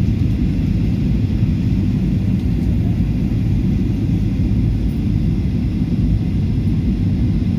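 A steady, loud low rumble with no distinct events, even throughout.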